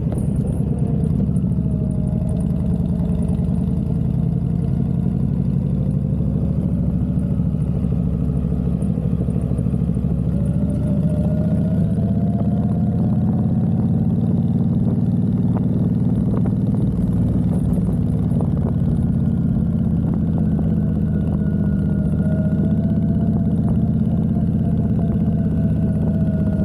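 Honda Fury's V-twin engine running steadily on the road, its pitch drifting slowly up and down.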